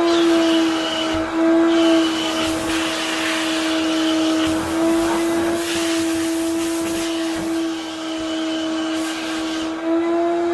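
Wet vacuum cleaner running with a steady high motor whine. Over it, a rush of air swells and fades several times.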